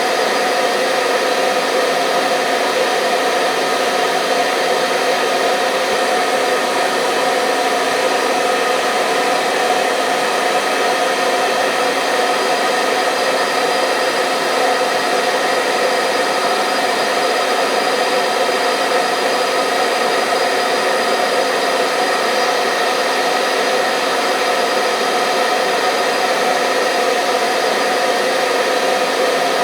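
Hair dryer running steadily: a constant whirring rush of air with a whine of several steady tones. It is played as white noise for lulling a baby to sleep.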